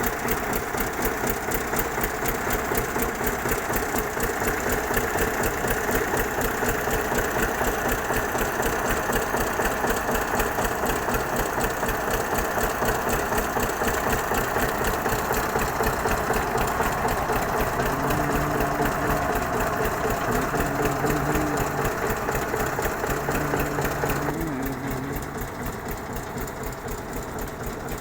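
Diesel engine, most likely the tractor driving the PTO spray tanker, running steadily with a rapid, even knock. Late on, a few short higher tones sound over it, and shortly after, the engine note drops slightly and loses its hiss.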